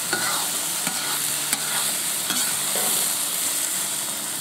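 Meat and onions sizzling as they fry in a cast-iron kazan, stirred with a metal slotted spoon that scrapes and clinks against the pot a few times.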